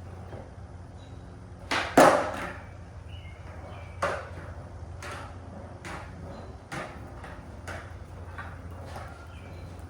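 Skateboard deck and wheels clacking sharply against pavement several times, the loudest a double clack about two seconds in, then single clacks about four and seven seconds in, over a steady low hum.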